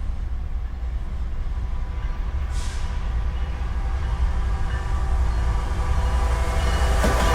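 Diesel freight train approaching, a steady low rumble with a faint engine drone that grows slowly louder. There is a brief hiss about two and a half seconds in.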